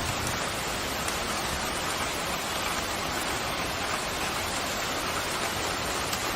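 Pouring rain, a steady even hiss.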